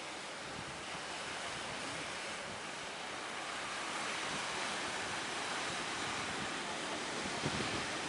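Waves of a rough sea surging in strong wind: a steady rushing noise with no break, growing a little louder about halfway through.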